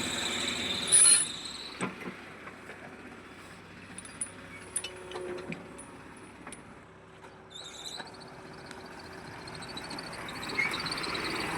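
Machinery running, with a brief loud squeal about a second in, then scattered clicks and knocks.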